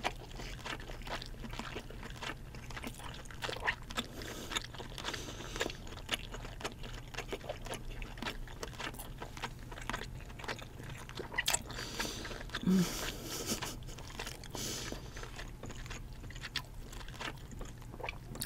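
Close-miked chewing of soft, moist king crab leg meat: a steady run of wet mouth clicks and smacks. Partway through there is one short hum.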